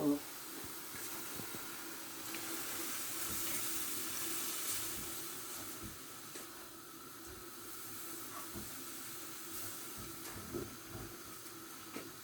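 Chicken and red pepper frying in a hot pan, a steady sizzle with a few faint light knocks.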